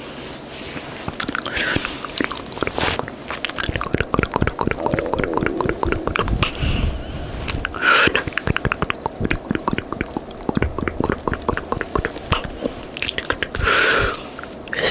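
Close-miked ASMR mouth sounds: a fast, dense run of wet tongue clicks and smacks, with a few louder wet bursts.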